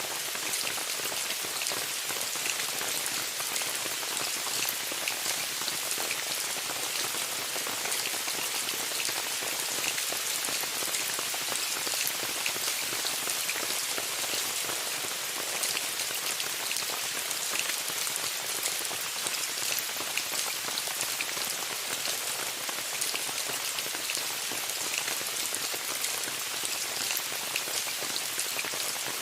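Steady rain falling on a tent: an even, dense hiss of drops with many small, sharp taps, unchanging throughout.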